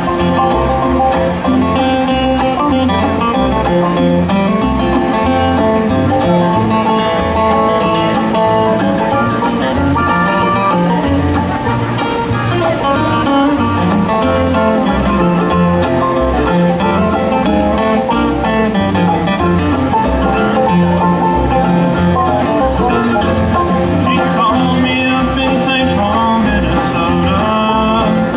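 Live bluegrass music: picked banjo and acoustic guitar over a steady, regular bass line.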